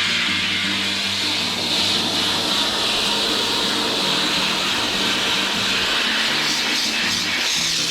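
Steady hissing spray of a water jet washing the parts of a disassembled washing machine, with background music underneath.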